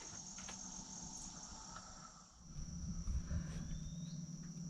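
Faint knocks and handling noise as a camera is repositioned, over a steady high-pitched whine. A low hum comes in about halfway.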